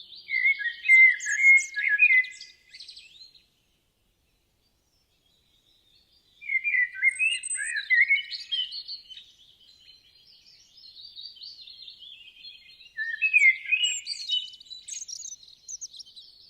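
Small songbirds chirping and twittering in quick trills: a burst of song in the first three seconds, a pause of about three seconds, then near-continuous twittering with louder bursts.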